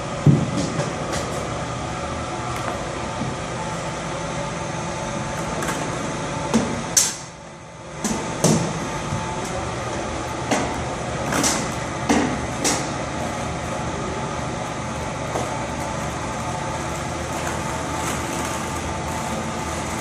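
Steady mechanical drone, like an engine running, with several short knocks and clunks over it and a brief dip in level about seven seconds in.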